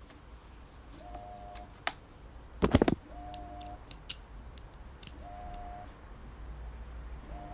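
Plastic and metal parts of an electric fan being handled and fitted during reassembly: scattered clicks, with a short rattling clatter of several quick knocks about two and a half seconds in, the loudest moment.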